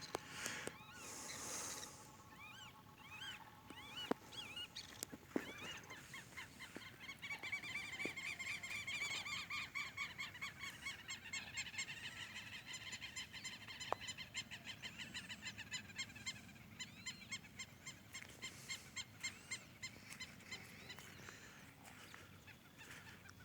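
Chorus of many frogs calling together, rapid repeated pulsing calls that build up a few seconds in and thin out near the end, as frogs gather after the first rain.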